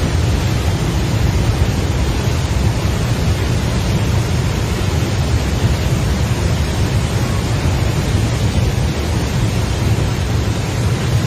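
Swollen flood river rushing past in a loud, steady wash of noise with a deep low rumble.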